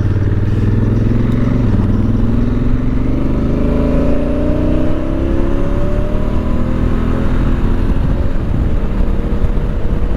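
Honda Africa Twin's parallel-twin engine pulling away under acceleration: its note rises, drops at an automatic dual-clutch upshift, then rises again. Later it settles into steady engine and wind noise at speed.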